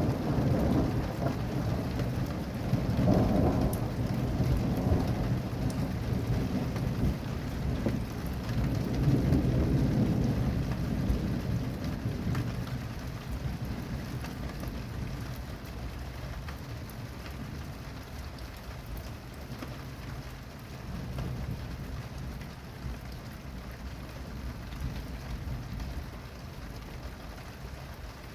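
Steady rain falling during a thunderstorm, with thunder rumbling low, swelling about three and about ten seconds in, then dying away.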